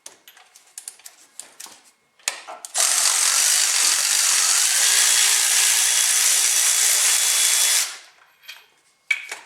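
A cordless power tool runs steadily for about five seconds, loud and even, with tools and parts clinking before and after it.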